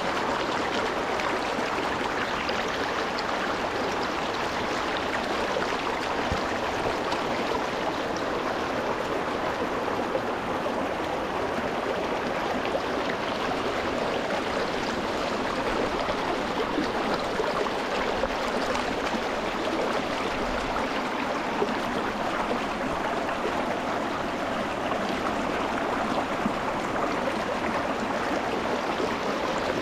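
Shallow rocky mountain stream running and splashing over stones, a steady, even rush of water close to the surface.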